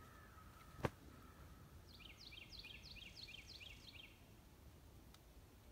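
Near-silent woods with a faint bird song: a rapid run of high, falling chirps, about five a second, lasting about two seconds in the middle. A single sharp click comes about a second in.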